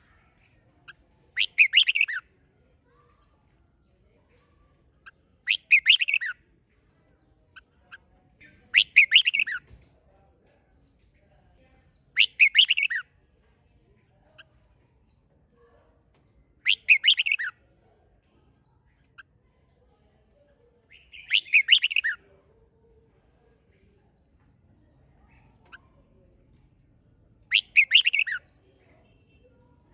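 Red-whiskered bulbul singing. It gives seven short, loud song phrases, one every four seconds or so, with faint chirps in between.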